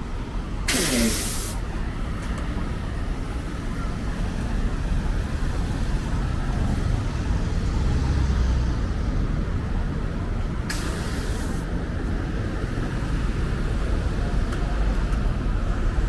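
Street traffic with a steady low rumble of engines, broken twice by a short loud hiss of released air: a bus's air brakes, about a second in and again about ten seconds later.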